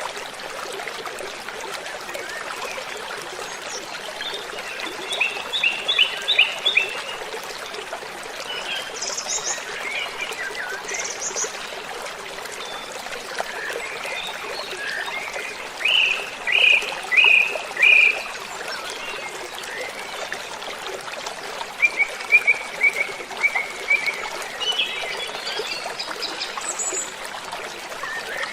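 Steady rush of falling water, with birds calling over it in short runs of quick chirps, several times through the stretch.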